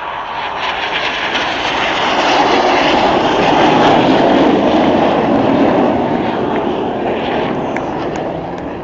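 Red Arrows BAE Hawk T1 jets passing at low level: the turbofan roar swells to its loudest about four seconds in, then fades away.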